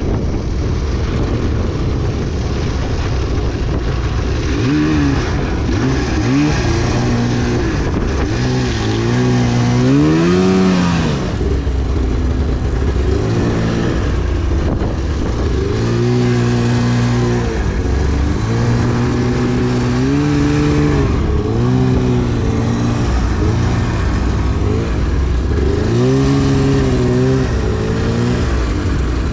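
2010 Arctic Cat CFR 1000 snowmobile's two-stroke twin engine running under throttle. Its pitch rises and falls again and again as the throttle is opened and eased off, over a steady rushing hiss.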